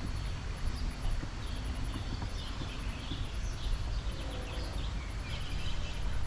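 Wild birds chirping in short calls along the river, over a steady low rumble.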